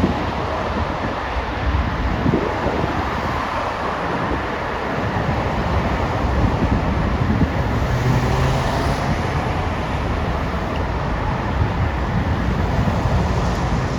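Jet aircraft engine noise as a steady rumble, with wind buffeting the microphone.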